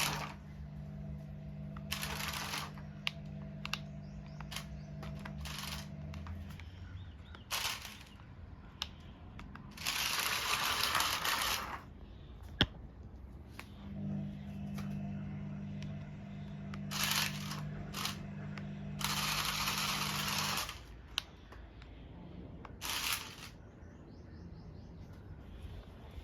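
Small electric motor of a toy monster truck whirring steadily in two runs of about six seconds each, with bursts of rustling, scraping noise and a few sharp clicks in between.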